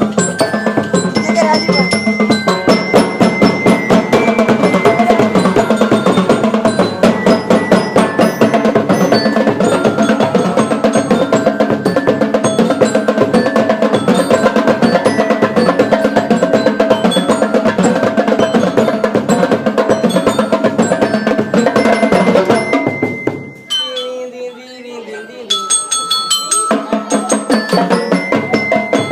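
A school marching band playing a fast rhythmic piece on drums and metallic bell lyres (glockenspiel-like). About three-quarters through, the playing breaks off for a few seconds, then the drums start up again.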